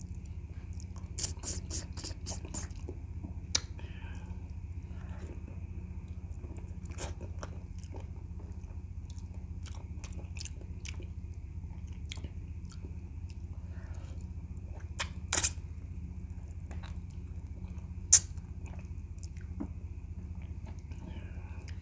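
Close-up eating sounds of a man gnawing goat's feet and rice by hand: wet chewing with sharp lip smacks and clicks. There is a quick run of smacks about a second in and louder single smacks near the middle and toward the end, over a steady low hum.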